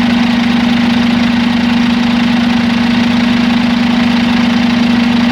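Scania G450 truck's 13-litre inline-six diesel idling steadily, with a constant droning tone.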